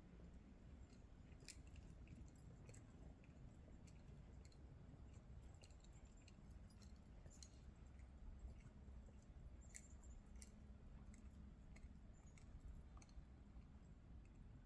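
Near silence: a faint low rumble with scattered, irregular tiny clicks.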